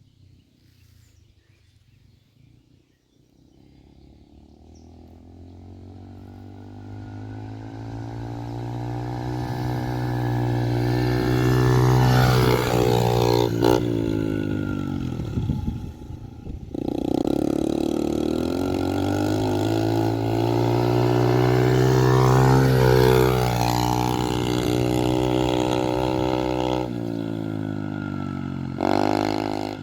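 A motorcycle engine running and revving. It swells from faint to loud over the first ten seconds or so, drops out briefly about halfway, then runs loud again before a short final burst near the end.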